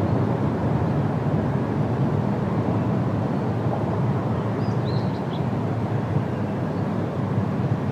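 Steady wind rushing through tree foliage, with a few brief, faint bird chirps about five seconds in.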